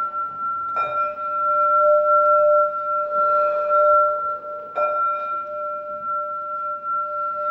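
Metal singing bowl ringing with a sustained low tone and a clear higher tone, struck again twice, about a second in and near five seconds, each strike renewing the ring.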